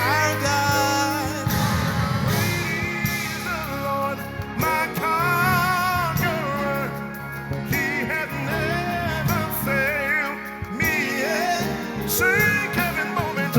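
Worship song in a church service: a singing voice with heavy vibrato over held instrumental accompaniment.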